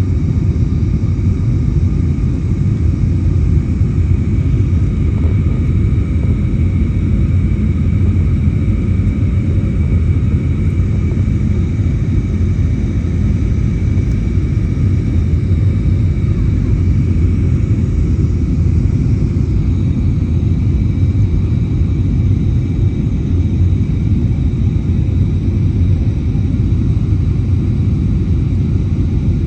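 Airbus A321neo with CFM LEAP-1A engines, heard from inside the cabin: a loud, steady engine and airflow rumble with faint, even whining tones above it.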